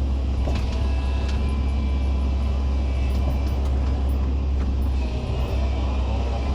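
Excavator's diesel engine running steadily under working load, a deep even drone, with a few light knocks and clicks from the machine scattered through it.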